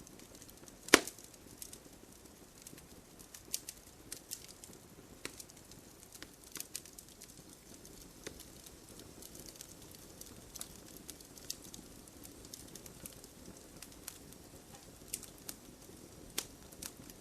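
Wood fire crackling in a fireplace: irregular sharp pops and snaps over a low steady hiss, with one loud snap about a second in.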